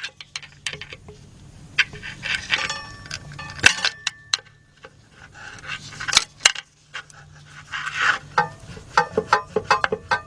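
Irregular metallic clinks and taps of hand tools and metal parts being handled, a few ringing briefly, over a faint steady low hum; the taps come quicker, several a second, near the end.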